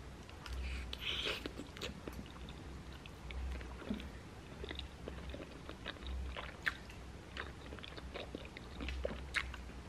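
A person chewing a mouthful of pasta close to the microphone, with scattered small clicks.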